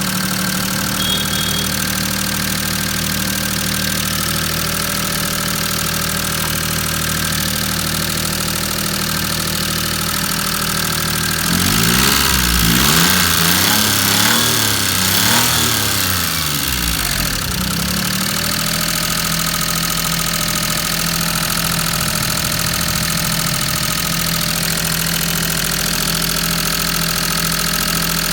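Maruti 800 three-cylinder petrol engine idling, revved up and down several times in quick succession about halfway through, then settling back to idle. The car is being looked at for a misfire.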